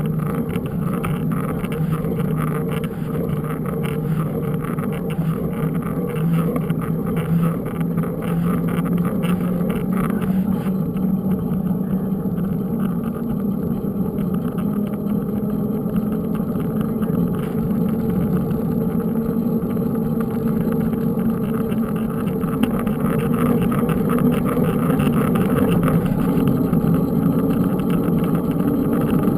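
A motor engine droning steadily, its pitch slowly climbing in the last several seconds.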